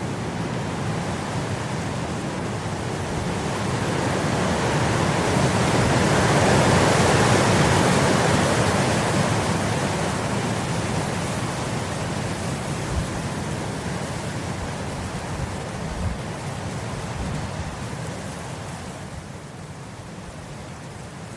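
Wind blowing through grass, a gust swelling to a peak a few seconds in and then slowly dying away. Two brief low bumps come in the second half.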